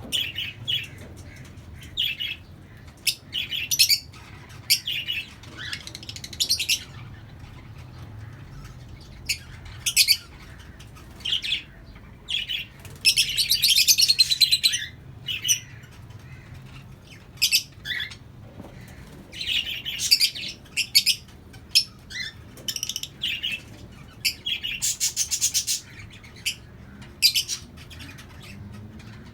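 A colony of lovebirds chirping and chattering in short, sharp, high-pitched calls, with two longer bursts of busy chatter, about halfway through and near the end.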